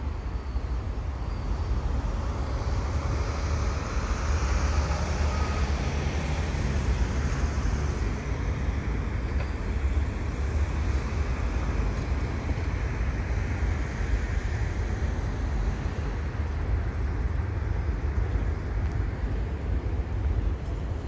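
Freight train gondola cars rolling slowly across a steel girder railway overpass: a steady low rumble, with street traffic passing underneath, one vehicle going by a few seconds in.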